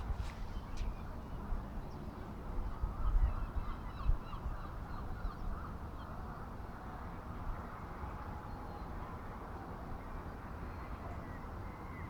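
Birds calling in the distance, many short overlapping calls, busiest in the first half, over a steady low rumble.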